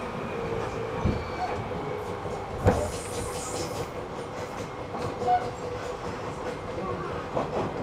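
Seibu 3000 series chopper-controlled electric train running, heard from inside the car: wheels clacking over rail joints over a steady motor hum. There is a knock about a second in and a louder one at about two and a half seconds, followed by a brief hiss.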